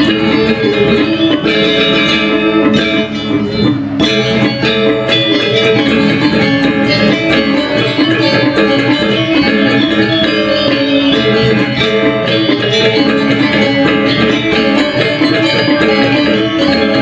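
Balinese gamelan ensemble playing a tabuh kreasi, a new instrumental composition: bronze metallophones and gongs struck in fast, dense interlocking strokes.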